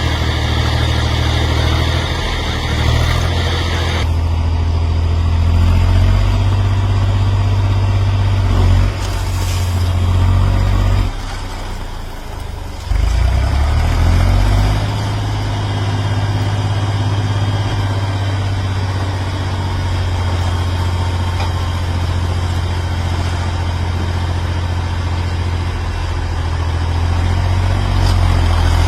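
Heavy diesel engine running steadily. It drops lower about eleven seconds in and picks back up a couple of seconds later.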